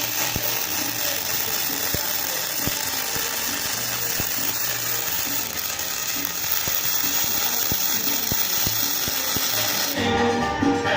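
MIG welding arc on 2.5 mm aluminium: a steady hiss with many scattered sharp clicks, cutting off about ten seconds in.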